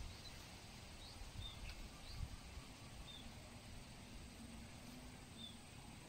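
Faint outdoor ambience with a few short, high bird chirps spaced a second or more apart, and a soft knock about two seconds in.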